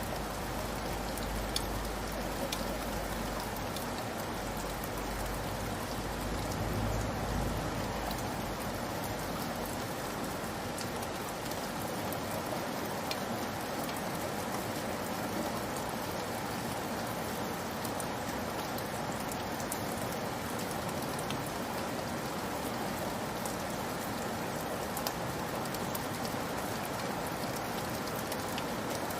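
Steady rain falling, with scattered sharper drop ticks. A low rumble underneath fades out about eight seconds in.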